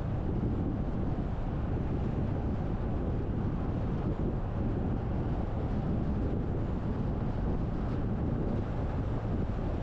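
Steady low rumble of wind and road noise from a car driving along.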